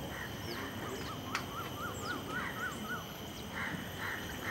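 A bird calling a quick run of about eight short rising-and-falling notes, some four a second, over a steady high background drone, with a few fainter chirps.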